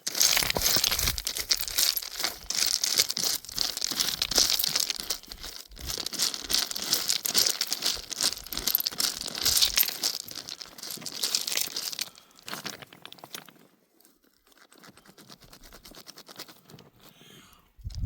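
Close, dense crinkling and tearing rustle, crackly with many tiny snaps, for about twelve seconds, then dropping to fainter, scattered rustling.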